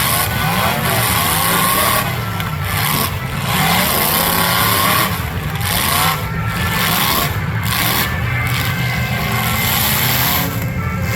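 Several demolition derby cars' engines revving at once, their pitches rising and falling and overlapping, over a constant dense hiss.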